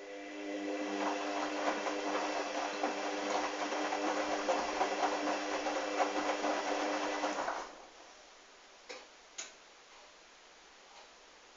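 Hoover washing machine's drum motor turning the drum through a sudsy wash, a steady motor hum with the wet load sloshing, stopping suddenly about seven and a half seconds in. Two sharp clicks follow about a second later.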